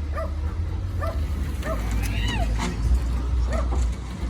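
A dog barking in short, high yips again and again at an uneven pace, over a steady low rumble.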